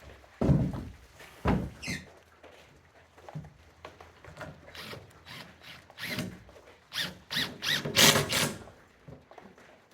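Plywood sheets being handled: two heavy thuds of wood on wood, then a run of scrapes and squeaks as the sheets rub and slide against each other.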